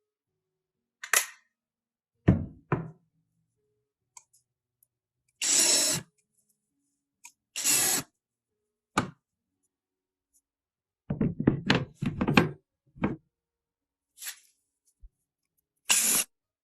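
Woodworking knocks and taps while fitting a wooden cabinet door: separate sharp knocks, a quick run of them about eleven to thirteen seconds in, and a few short noisy bursts about half a second each.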